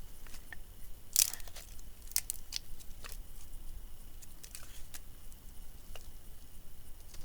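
Dry wood crackling and snapping in a small, newly lit campfire: irregular sharp snaps, the loudest about a second in, more in a cluster around two to three seconds and a few later.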